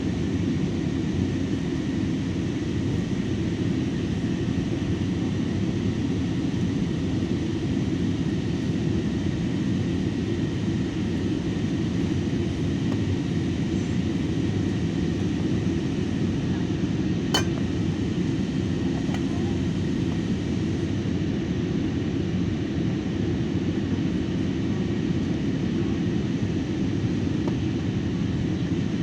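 Airliner cabin noise: a steady low rumble that holds level throughout, with a single sharp click about 17 seconds in.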